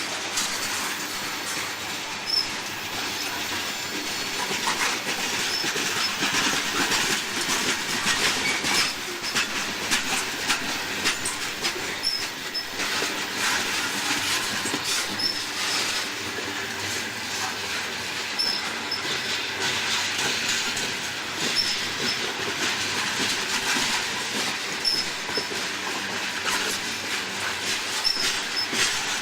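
Coal train cars rolling past at steady speed, their wheels clacking over rail joints, with short high squeaks from the wheels recurring throughout.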